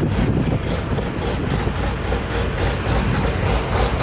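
A car engine running at low speed, with a steady low exhaust rumble.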